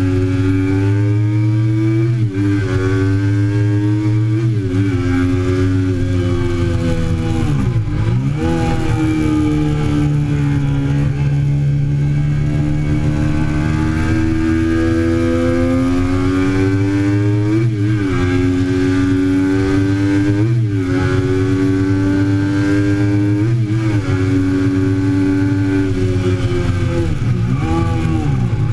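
2008 Triumph Daytona 675's inline three-cylinder engine under hard acceleration. The engine note climbs steadily and drops sharply at each gear change, several times over.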